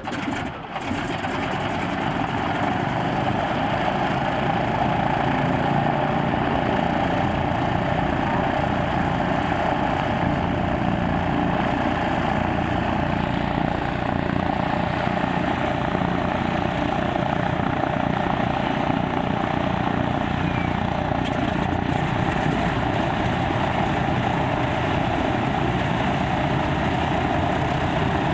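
Lisunov Li-2's Shvetsov ASh-62IR nine-cylinder radial engine catching on start, building up over the first two seconds or so, then running steadily with its propeller turning.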